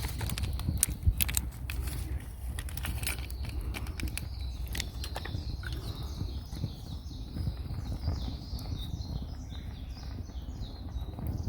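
A bird singing a run of short, repeated high notes over a low outdoor rumble, with scattered sharp clicks and clinks in the first few seconds.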